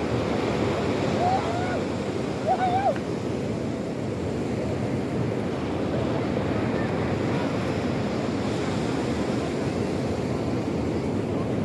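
Sea surf washing steadily, with wind on the microphone. Two short wavering calls stand out about a second and two and a half seconds in.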